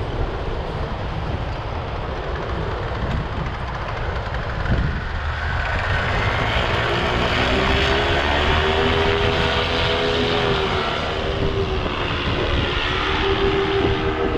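Paramotor engine and propeller running under heavy wind noise on the microphone. About six seconds in the engine's tone comes up, rises a little in pitch and then holds steady.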